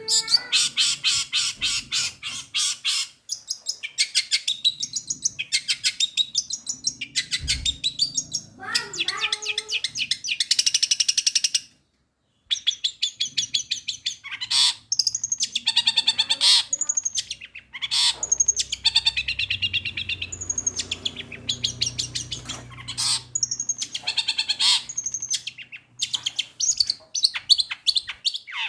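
Long-tailed shrike (cendet) singing a fast, varied mimicking song of rapidly repeated high chattering notes, with a repertoire that includes the calls of fighting sparrows. There is a brief pause about midway.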